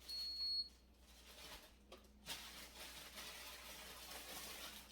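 A refrigerator's door-open alarm gives a high, steady electronic beep, the last of a series of about one a second, which stops less than a second in. Then there is faint rustling of food packaging being handled.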